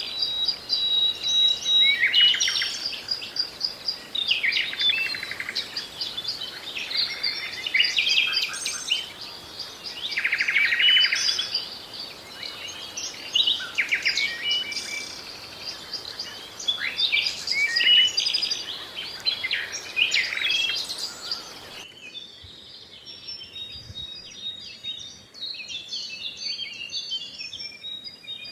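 Several songbirds singing together in dense, overlapping phrases of chirps, trills and whistles over a steady background hiss. About 22 seconds in the sound cuts abruptly to a different, quieter stretch of sparser, higher chirping with little background noise.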